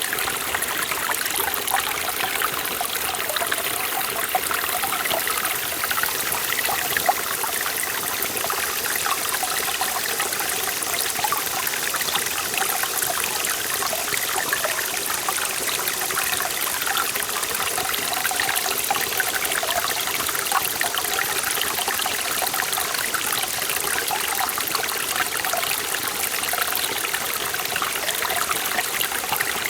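A forest valley stream running over rocks: a steady rush of water with many small splashes and trickles, even throughout.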